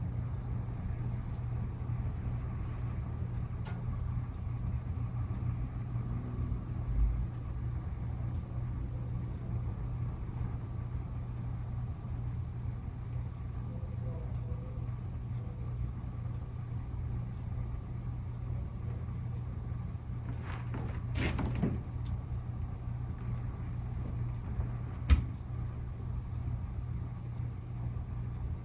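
A steady low hum, like a running engine or machine, with a dull thump about seven seconds in, a brief cluster of rustling knocks about two-thirds through, and a sharp click near the end.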